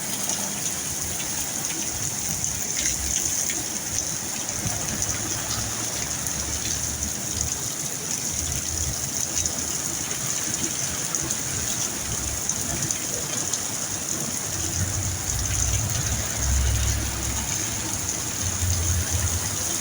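Heavy rain falling steadily in a dense, even hiss from a sudden downpour. Irregular low rumbling joins in over the last few seconds.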